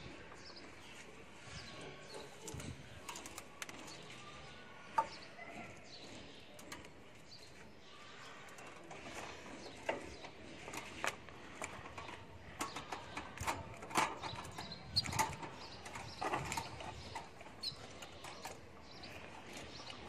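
Cage birds chirping briefly now and then amid wing flutters and scattered light clicks and taps, which come thicker in the second half.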